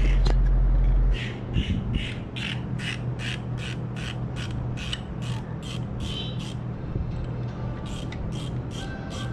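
Ratchet wrench clicking in an even rhythm, about two and a half clicks a second, with a short pause about two-thirds through, over a faint steady low hum. A loud low hum cuts off about a second in.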